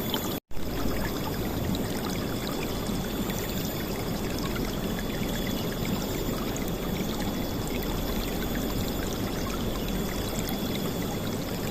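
River water flowing and splashing steadily, a dense rushing with most of its weight low down. The sound cuts out completely for a split second about half a second in.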